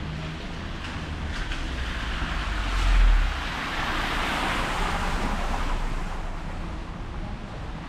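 A vehicle passing on a wet street, its tyres hissing as it swells up and fades away over steady rain, with a brief low rumble about three seconds in.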